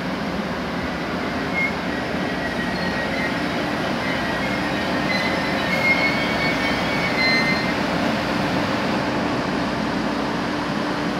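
NJ Transit push-pull commuter train, with an ALP-45DP locomotive at the rear, rolling slowly to a stop. Thin high squeals from the brakes or wheels come and go from about a second and a half in until the train halts. A steady hum carries on after it stops.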